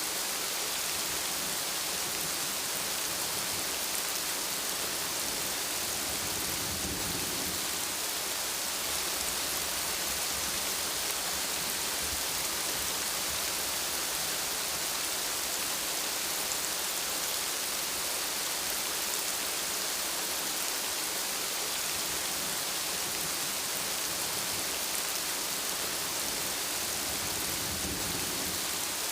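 Steady, even rainfall hissing down, with a faint low rumble of distant thunder about seven seconds in and again near the end.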